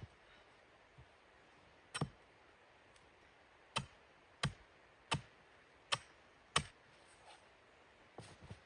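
A series of sharp knocks: one about two seconds in, then five in a fairly even rhythm about two thirds of a second apart, followed by a few fainter irregular ticks near the end.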